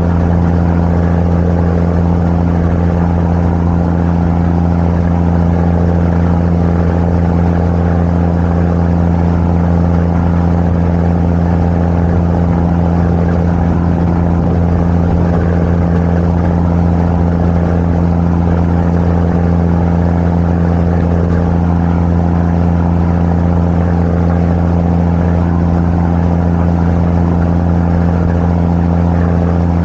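Tour boat's engine running steadily under way, a constant low hum with noise on top and no change in speed.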